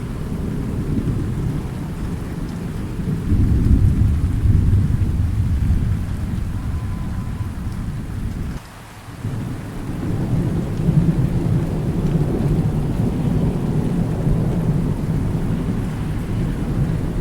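Rolling thunder over steady rain. Deep rumbles swell about three seconds in and again after the middle, with a brief sharp dip in the sound about halfway through.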